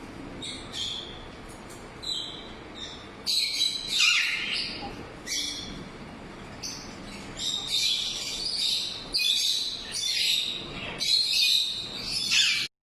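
Alexandrine parakeets calling with harsh, repeated squawks, faint at first, then loud and coming about once a second from a few seconds in, cut off suddenly near the end.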